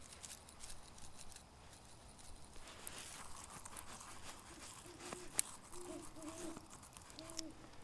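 Faint rustling and handling noise of seasoning rub being worked into a raw steak by hand, with scattered small clicks and one sharper click about five seconds in. A few faint short, low, steady tones come near the end.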